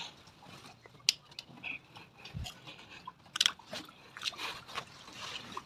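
Soil being scooped and pressed around the base of a tomato plant, giving irregular crunching and scraping.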